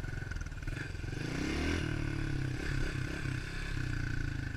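A 110cc pitbike's single-cylinder four-stroke engine running. It revs up about a second in, then holds with a few quick throttle chops.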